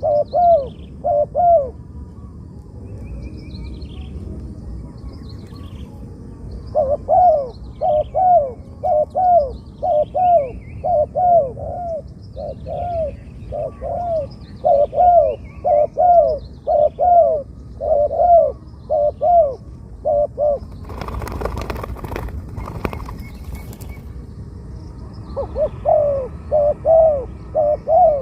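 Spotted doves cooing in long runs of quick, evenly repeated low coo notes, with a pause of a few seconds near the start. Other small birds chirp faintly and high above them. A short burst of rustling noise comes about three quarters of the way through.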